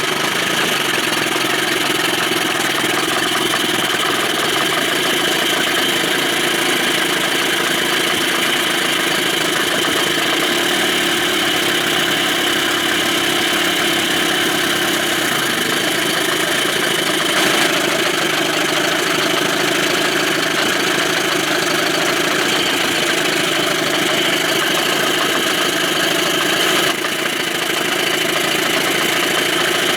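A 2000 Johnson 25 hp outboard motor idling steadily in forward gear. Its carburettor has just been adjusted to stop it sneezing lean, and the owner still hears a slight miss in it.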